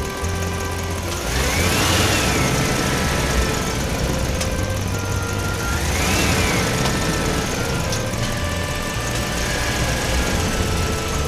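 Battery-powered toy vehicle running with a steady motor buzz and rattle, under a jingle of held electronic notes, with two rising-then-falling whistling sweeps about four seconds apart.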